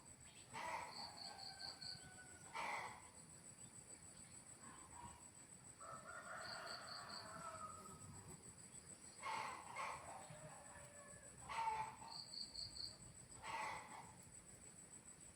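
Faint rural ambience: chickens calling in short bursts, with one longer, drawn-out call near the middle. Under them runs a steady high insect drone and a cricket-like chirp of about five quick pulses, repeated every few seconds.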